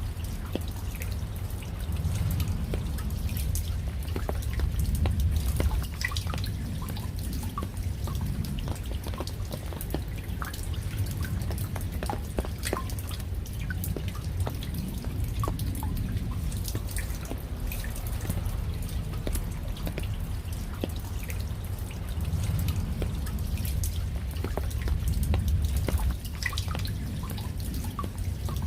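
Raindrops dripping and pattering in irregular, scattered ticks over a steady low rumble of falling rain.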